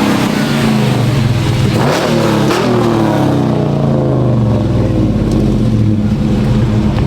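Car engine revving loudly, rising sharply about two seconds in, then settling into a steady, lower drone.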